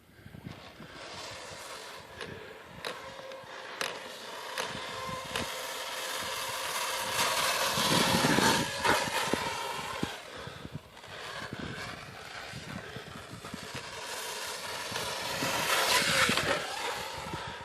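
Electric motor and geared drivetrain of an Axial Yeti Baja 1000R RC truck whining as it is driven, building up twice, loudest about eight seconds in and again near the end, with scattered clicks and scrapes.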